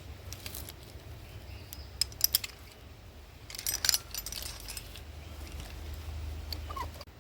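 Metal climbing hardware, a carabiner and a figure-8 descender on the rope, clinking as it is handled. The clicks come in short clusters about two seconds in and again around four seconds, over a low steady hum.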